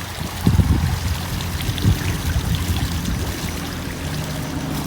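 Water running and pouring steadily, with a few low thumps about half a second and two seconds in.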